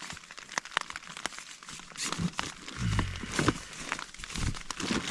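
Plastic bags and gear crinkling and rustling as they are handled, with dull thumps and heavier rustling in the second half.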